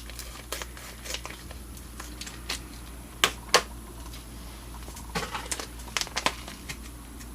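Plastic jerky bag being handled and cut open with scissors: scattered crinkles and a few short, sharp snips, the loudest two close together about halfway through.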